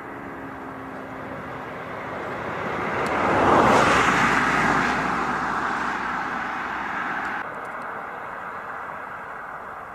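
VW Mk1 Golf driving past: its engine and tyre noise swell to a peak about four seconds in, then fade as it moves away. The higher hiss cuts off suddenly about seven and a half seconds in.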